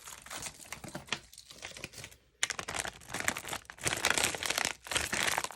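Sticky homemade slime being squished and stretched by hand: dense crackling and tearing with fine clicks. There is a short lull about two seconds in, then it gets louder.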